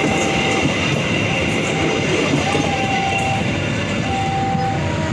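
Passenger train coaches rolling past close by: a loud, steady rush of wheels on rail, with thin whistling tones coming and going over it.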